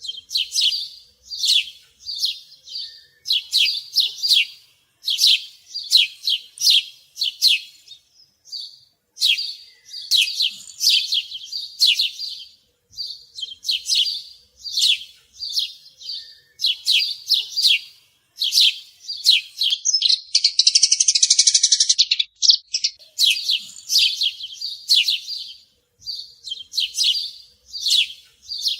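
A bird chirping over and over in quick high notes, with a short break about eight seconds in and a longer harsh buzzing trill about twenty seconds in.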